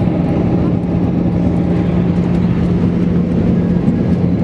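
Airbus A319 cabin noise in flight: a steady engine and airflow drone with a constant low hum.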